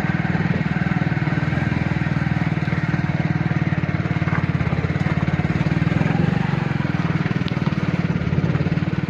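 Motorcycle engine running steadily under way, with a fast, even firing beat.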